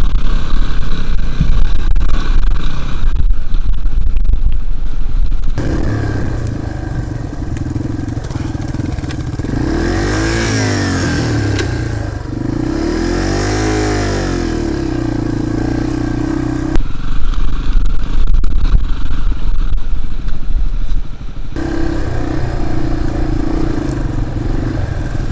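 Dirt bike engines running as the bikes ride slowly along a rough trail, with the engine note rising and falling twice in the middle. The sound changes abruptly a few times.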